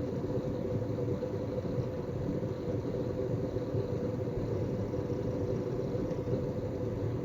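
Synology DS418play NAS running: a steady whir with a faint steady tone, over a busy, fluttering gurgle ('szörcsög') of drive activity.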